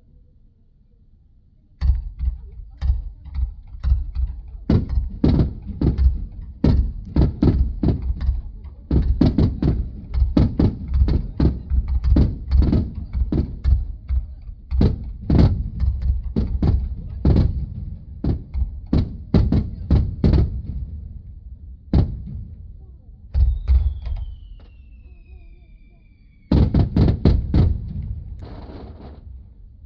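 Fireworks shells bursting in rapid, overlapping bangs, heard as thuds from inside a car, from about two seconds in to past the twenty-second mark. A falling whistle follows, then a last dense volley of bursts near the end.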